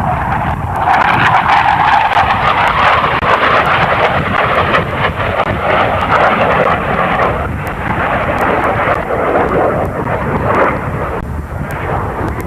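Loud rushing noise of a jet aircraft passing over the show, building sharply about a second in and easing slightly after about seven seconds.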